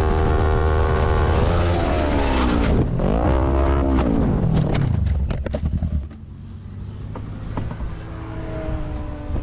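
Motorcycle engine running, its pitch dipping and then climbing again as the throttle is closed and reopened. A run of sharp knocks follows. About six seconds in, the engine sound cuts away to a quieter background.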